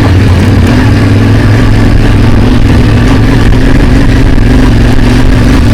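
Yamaha Ténéré 700 motorcycle's parallel-twin engine running steadily under load, its pitch holding even, with wind and riding noise over it.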